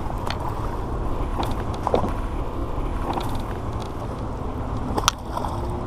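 Wind buffeting the microphone in a steady low rumble, with scattered small clicks and a sharper click about five seconds in.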